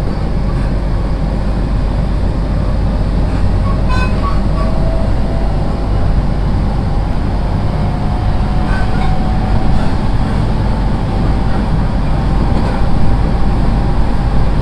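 Running sound inside a JR East 701-series electric train car: a steady rumble of wheels on rail, with a thin motor whine that climbs slowly in pitch from about four seconds in.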